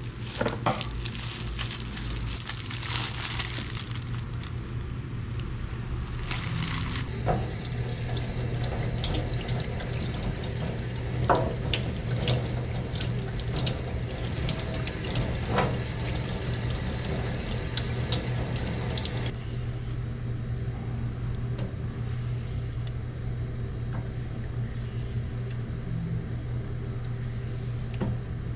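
Kitchen tap running into a sink, with scattered small knocks and clicks; the hiss thins out about two-thirds of the way through.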